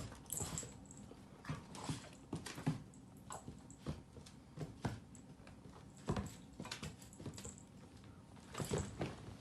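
A blue-nose pit bull puppy and a cat play-fighting: scuffling with irregular light knocks and thumps of paws and bodies.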